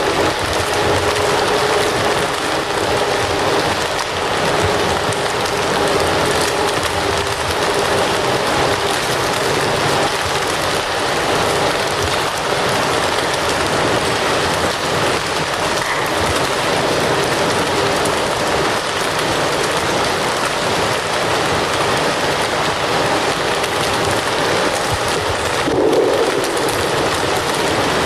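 Fire crackling with a steady hiss and dense crackle, and a brief low swell near the end.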